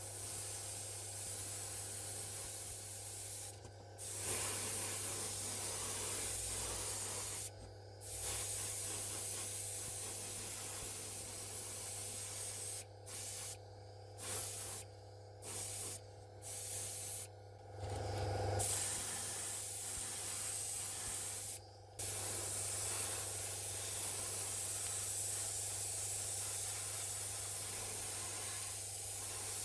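Steady hiss of compressed air spraying, broken by about nine short pauses where the flow is shut off and restarted, over a constant low hum.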